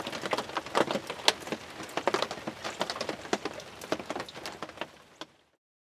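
Rain falling on a hunting ground blind: a steady patter of irregular, sharp raindrop taps. It cuts off suddenly near the end.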